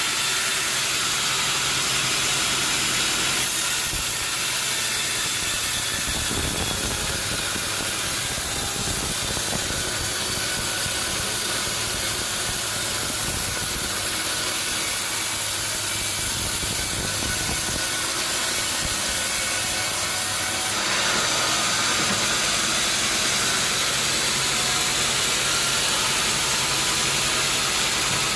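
Sawmill machinery running steadily: a motor hum under a continuous high, hissing saw noise, which gets a little brighter and louder about three-quarters of the way through.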